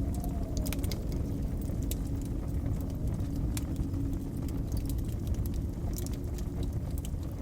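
Wood fire crackling with scattered sharp pops over a steady, low blizzard wind, whose faint whistle rises and falls in pitch near the start.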